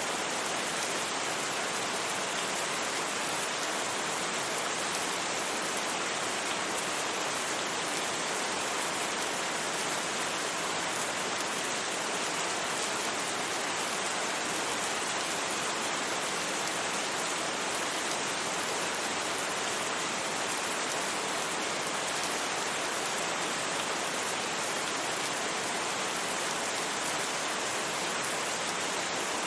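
Steady, gentle rain: an even hiss of rainfall with no thunder and no single drops or other events standing out.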